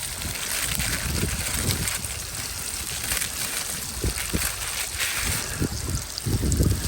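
Water running or trickling, with irregular low bumps mixed in.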